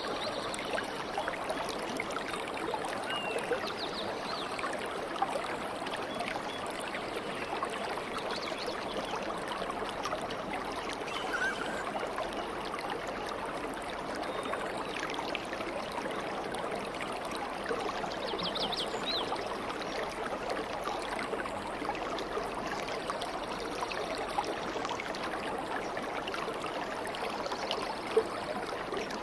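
Flowing stream water, a steady babbling and trickling, with a few faint, brief bird chirps now and then.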